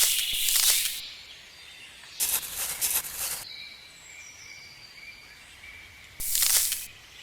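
Birds calling steadily in the background, broken three times by short bursts of loud hissing, rushing noise.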